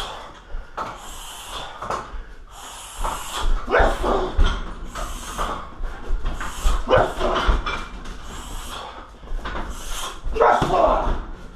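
Heavy bag struck again and again by kicks, knees and punches in quick combinations, each blow a dull thud with a short hissed exhale or grunt from the fighter.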